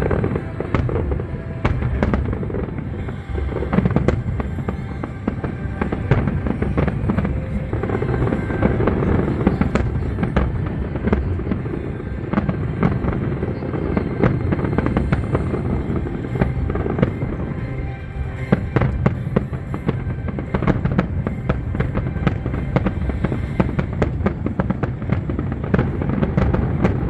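Fireworks display: a continuous barrage of shell bursts, with many sharp bangs and crackles over a steady deep rumble.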